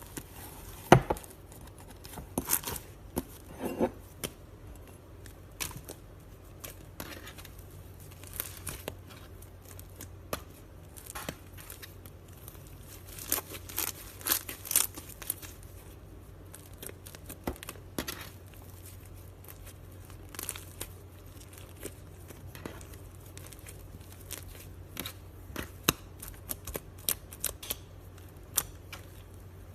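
Slime being stretched and pulled apart by hand, with irregular clicking and crackling pops throughout.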